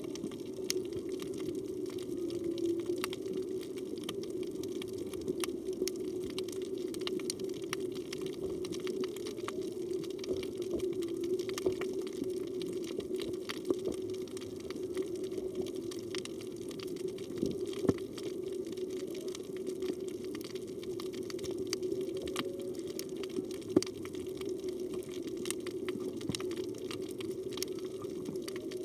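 Underwater reef ambience picked up through a camera's waterproof housing: a steady low hum of water with a constant crackle of sharp clicks.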